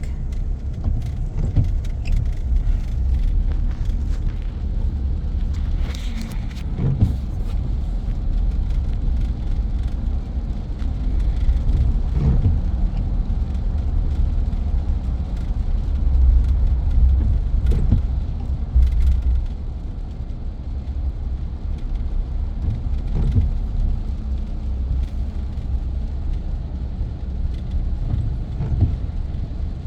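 Pickup truck being driven, heard from inside the cab: a steady low rumble of engine and road noise.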